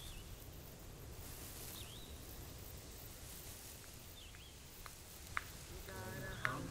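Faint outdoor ambience over a low hum, with a few short, soft bird chirps and a couple of small clicks; voices come in near the end.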